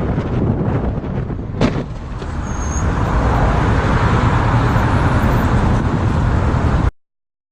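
Road and wind noise from a moving vehicle, with one sharp knock a little under two seconds in. The noise grows louder from about three seconds, then cuts off abruptly near the end.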